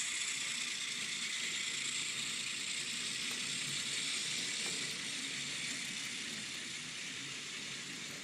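N scale Alco FA-1 model diesel locomotive running on the layout, its ESU LokSound decoder playing diesel engine sound through a tiny onboard speaker along with the hiss of motor, gears and wheels on the track. The sound is steady and slowly grows fainter, as the train moves away.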